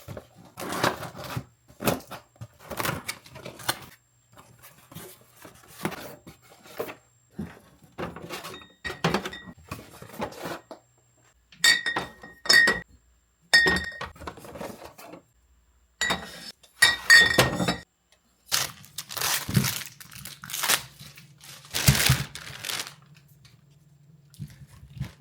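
Dishes and cutlery being handled: an irregular run of knocks and clatters, with a few ringing clinks of crockery about halfway through. A faint low hum comes in during the last few seconds.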